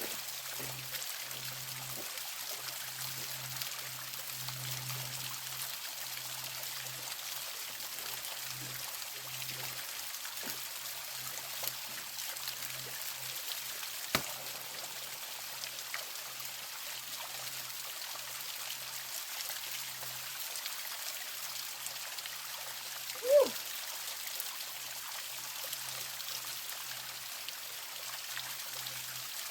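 Small creek waterfall running, a steady trickling and splashing hiss of falling water. A sharp click comes about fourteen seconds in, and a short, louder pitched sound that bends in pitch comes about twenty-three seconds in.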